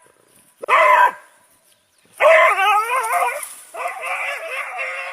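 A dog howling: one short cry, then two longer howls with a wavering pitch.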